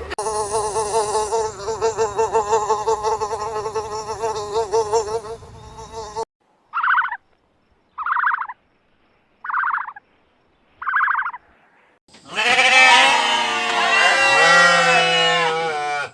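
A run of animal sounds. First a steady buzzing for about six seconds. Then four short, high calls about a second and a half apart. Near the end comes a loud jumble of many animals calling over one another.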